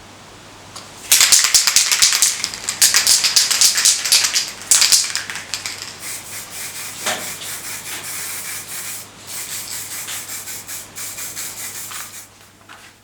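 Rapid rasping strokes of a forged metal piece being scrubbed by hand. They start about a second in, are loudest for the first few seconds and get lighter after about six seconds.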